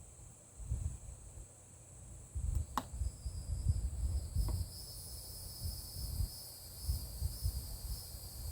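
A steady high-pitched insect chorus, crickets trilling, with a second pulsing layer joining about three seconds in. Under it comes an irregular low rumble, with one sharp click near the three-second mark.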